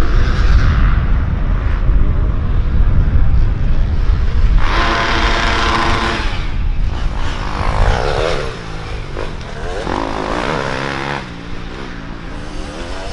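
Dirt bike engines revving as racers go by, their pitch rising and falling with throttle and gear changes. The loudest pass comes about five seconds in, and more bikes rev further off later. A heavy low rumble runs underneath in the first half.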